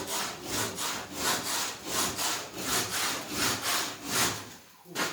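Hand saw cutting with quick back-and-forth strokes, about two and a half a second, while an opening is cut through a wall; the strokes stop near the end, followed by a single knock.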